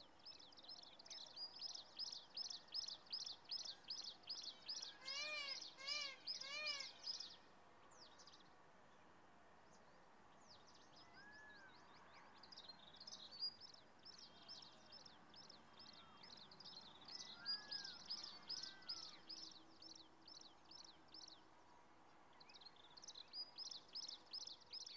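Wild birds calling: runs of rapid high chirps, about three or four a second, that stop and start again. Three loud arched calls, evenly spaced about half a second to a second apart, come about five seconds in, and a few softer arched calls follow later.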